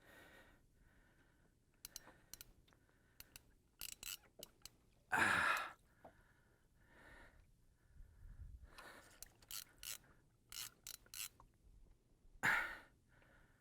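Fly reel clicking in short ratcheting runs as line is worked on a hooked tarpon, with two louder, longer noises about five seconds in and near the end.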